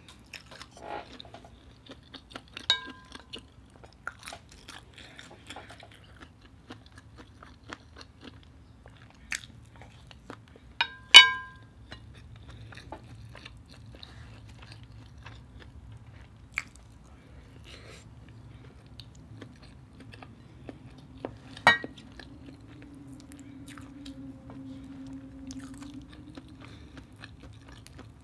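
Mouth chewing and biting, with small crackling clicks of cooked shrimp being handled and peeled by hand. A couple of ringing clinks of dishware come about three and eleven seconds in, the second the loudest.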